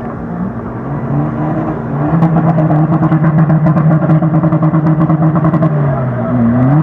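Off-road vehicle's 1.9 TDI diesel engine revving up under load, held at high revs for about three and a half seconds with a fast pulsing beat and clattering ticks, then easing off and revving up again near the end.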